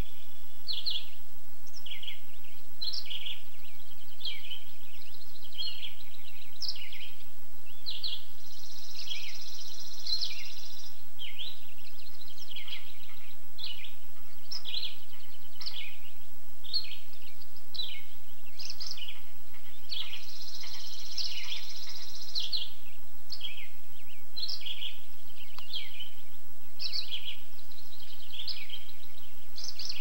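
Birds chirping repeatedly, with two longer, higher phrases about nine and twenty seconds in, over a faint steady hum.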